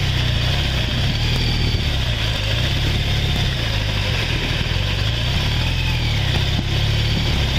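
Police motorcycle engine running steadily under the rider, with a steady rushing noise over it.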